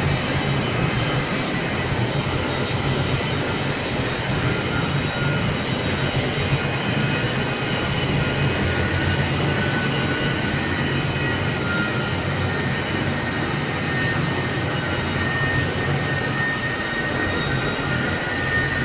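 Vertical lathe running with a steady low machine hum, with faint high thin tones drifting in and out above it.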